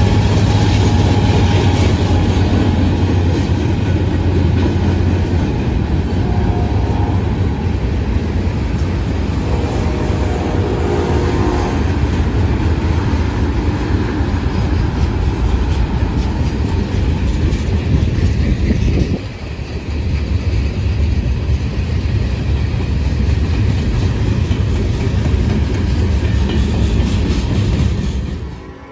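Norfolk Southern freight train rolling past close by: a steady loud rumble of wheels on rail, with clickety-clack over the joints. A few faint high squeals come a third of the way in.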